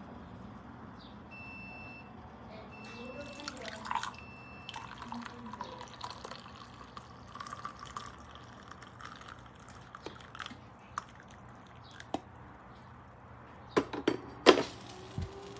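Liquid dripping and trickling at a drip coffee maker, with two short electronic beeps about a second and a half in. A few sharp clicks and knocks near the end are the loudest sounds.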